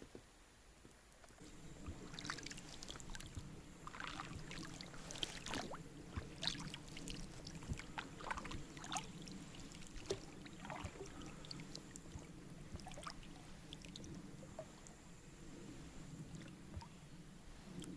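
Small boat under way on the water: a steady low hum starts about a second and a half in, with splashes and knocks of water against the boat through the first half.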